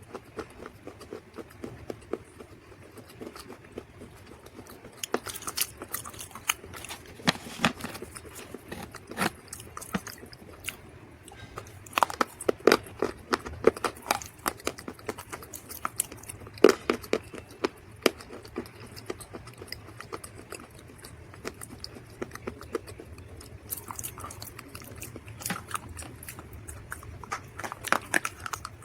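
Dried mud crunching and crackling in irregular runs of sharp cracks, denser and louder in a few bursts and then thinning out between them.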